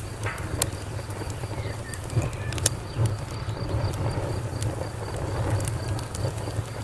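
Wood fire crackling: scattered sharp pops and snaps, the loudest at the very start and about two and a half seconds in, over a steady low rumble. A faint high chirp pulses evenly through it, about three times a second.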